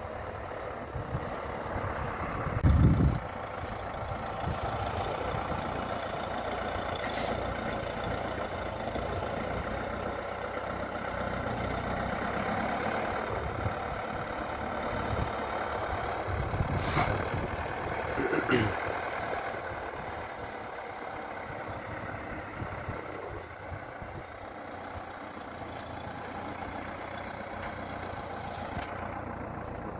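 Heavy diesel engine of a work machine running steadily under load. A loud low thump comes about three seconds in, and a few sharp metallic clanks come later.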